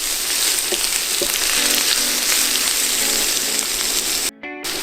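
Sliced onions sizzling as they fry in hot oil in a pan, a steady dense hiss. The sound drops out briefly near the end.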